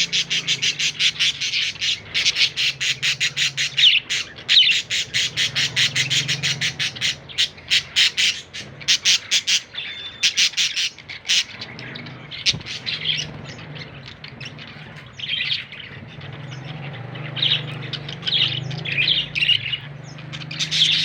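Budgerigar chirping: a fast, even run of sharp squawky calls for about the first half, then scattered separate chirps.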